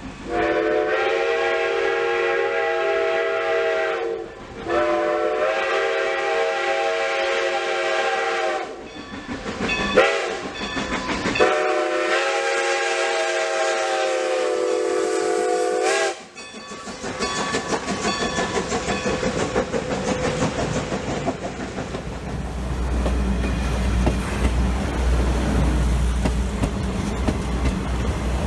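Steam locomotive whistle sounding the grade-crossing signal: two long blasts, a short one and a long one, each a chord of several tones. Then the train runs by with a rumbling, rapid beat of wheels and exhaust.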